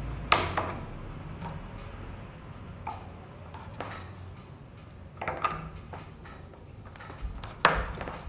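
Sharp metal clicks and knocks at irregular intervals, about five of them, as a wrench and the metal parts of a washing machine trolley knock together while its caster wheels are screwed on and tightened. The loudest knocks come just after the start and near the end.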